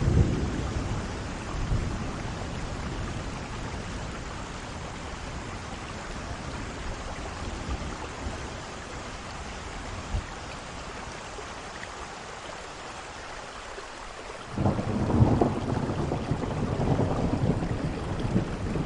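Steady heavy rain with thunder: a low rumble fades over the first few seconds, then a loud roll of thunder breaks in near the end.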